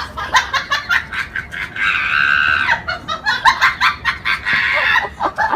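A bird calling: a rapid run of short calls, with a longer held call about two seconds in and another near the end.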